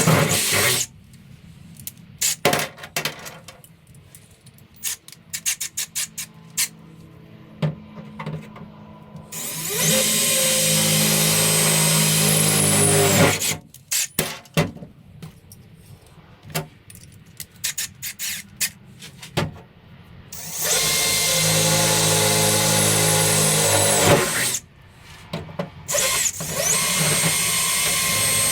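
A power tool motor runs in bursts of a few seconds, spinning up at the start of each. Between the bursts there are clicks and knocks of parts and tools being handled.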